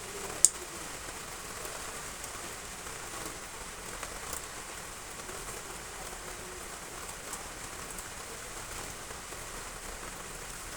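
Heavy rain hitting roof tiles, a steady hiss, with one sharp tap about half a second in.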